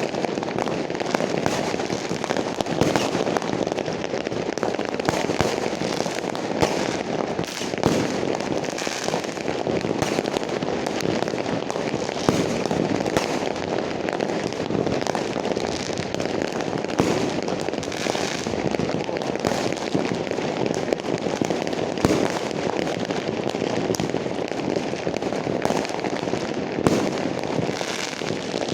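Fireworks going off without pause: a dense, continuous crackle of many overlapping bangs and pops. Louder single bangs stand out now and then, about every few seconds.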